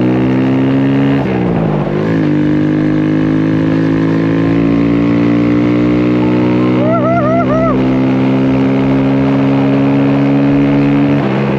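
Honda Grom motorcycle's single-cylinder engine running under way, holding a steady note that climbs slowly, with a brief wavering dip about a second and a half in and again near the end. A short high warbling sound of four quick rising-falling notes comes about seven seconds in.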